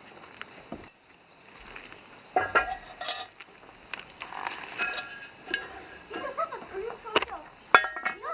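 A steady, high-pitched insect chorus, with scattered sharp clicks and knocks over it.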